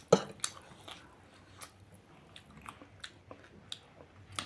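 Close-up eating sounds: chewing, with irregular sharp wet mouth clicks and small crunches, the loudest just after the start.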